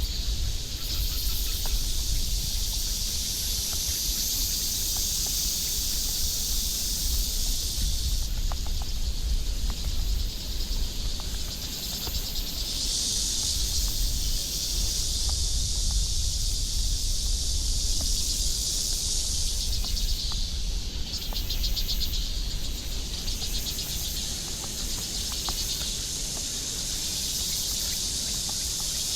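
A dense, high-pitched chorus of insects chirring without a break, swelling and easing every few seconds, over a steady low rumble.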